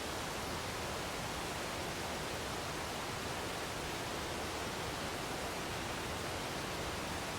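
Waterfall: water falling steadily, an even hiss that does not change.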